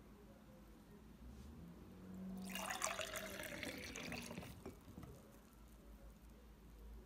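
Watermelon juice running from a homemade tap into a glass for about two seconds, starting about two and a half seconds in.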